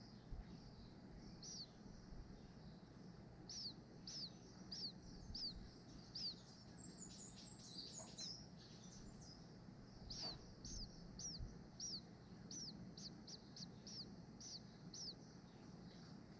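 A small bird giving short, high chirps over and over, each note sliding downward, roughly two a second with gaps, and a quick higher twitter about seven seconds in.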